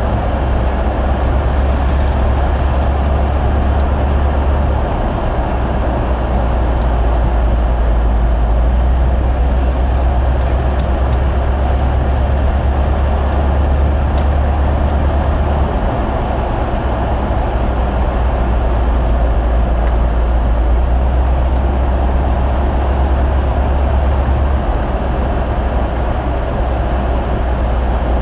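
1970 Ford Bronco driving, its engine making a low, steady drone over road and wind noise. The drone changes pitch abruptly three times, down, then up, then down again.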